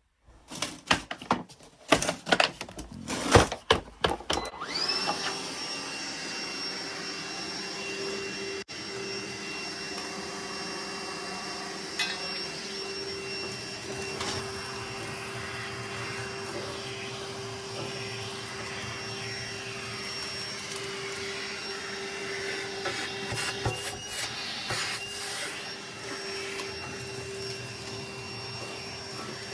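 A few knocks and clatter, then about five seconds in a vacuum's motor spins up and runs steadily with a high whine, with occasional knocks of the nozzle. It is sucking dust buildup out of a gas boiler's combustion chamber.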